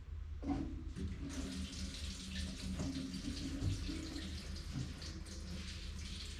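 Gasoline being poured from a can into a tractor's fuel tank: a steady gurgling flow of liquid that starts about half a second in.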